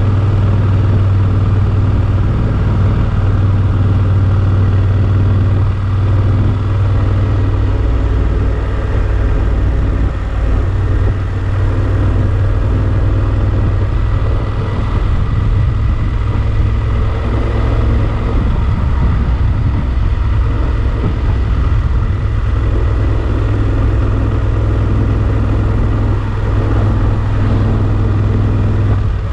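Yamaha Super Ténéré XT1200's parallel-twin engine running steadily at cruising speed, a constant low drone, heard from on board the moving motorcycle.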